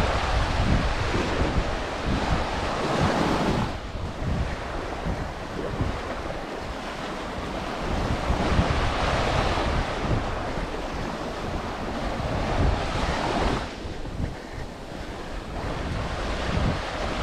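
Surf breaking and washing up the beach, the wash swelling and easing with each wave, with wind buffeting the microphone.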